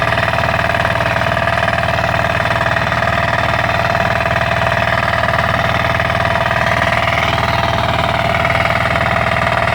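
Motor Sich walk-behind tractor (motoblock) engine running steadily at a constant speed while rotary tilling.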